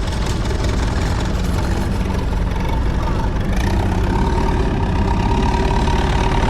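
Boat engine running steadily, with a thin steady whine joining it about three and a half seconds in.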